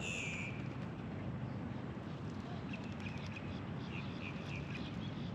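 Faint bird chirps over a steady low background rumble, with one short, louder call right at the start.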